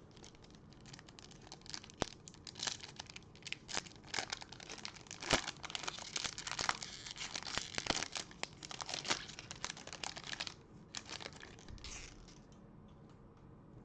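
Foil wrapper of a Bowman baseball card pack being torn open and crinkled by hand, a run of crackling rustles that dies away near the end.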